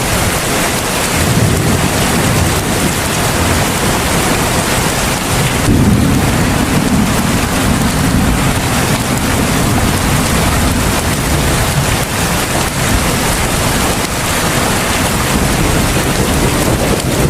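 Heavy rain falling steadily as a dense, even hiss. About six seconds in, a deep low rumble joins underneath and carries on.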